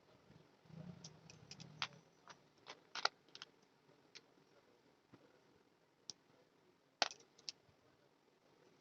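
Faint, scattered light clicks and taps, about a dozen in all, bunched in the first three and a half seconds and again about seven seconds in, with a low hum under the first two seconds.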